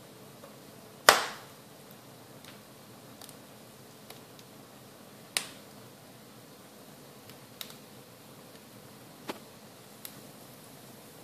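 Wood fire burning in a fireplace, popping now and then over a steady low hiss: one loud sharp pop about a second in, then four or five smaller pops spread out after it.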